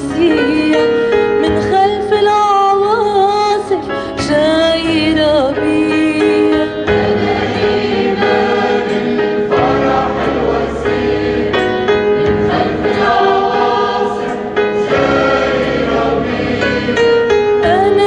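Church choir singing an Arabic hymn, several voices together.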